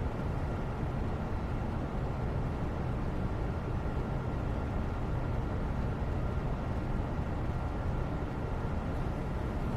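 Steady background noise, an even low rumble with no distinct events.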